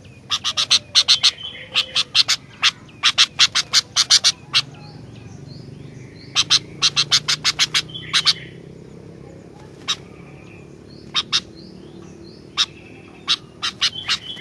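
Sooty-headed bulbul (kutilang) calling in quick runs of sharp, harsh notes, several a second, with pauses and single notes between the runs.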